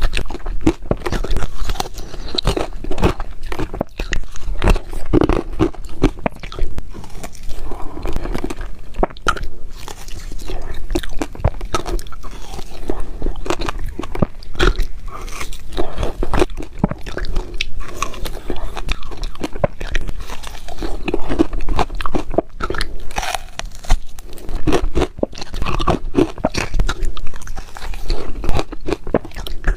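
Ice being bitten and chewed close to the microphone: a dense, irregular run of loud crunches and cracks with no pause.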